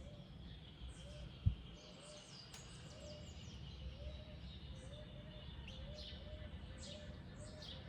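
Wild birds calling: a low, arched note repeating over and over, with high, sharp, falling chirps from other birds over it and a low rumble underneath. A single thump about one and a half seconds in.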